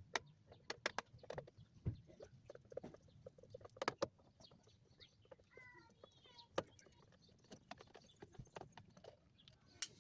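Irregular light clicks and taps, loudest near four seconds and near the end, with a brief squeak or chirp about six seconds in.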